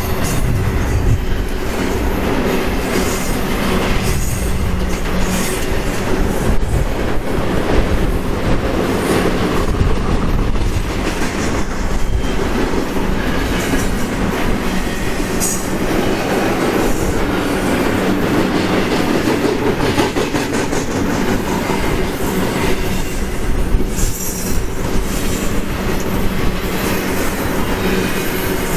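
Double-stack intermodal well cars of a freight train rolling past: a steady, loud rumble of steel wheels on rail with scattered clicks and clacks.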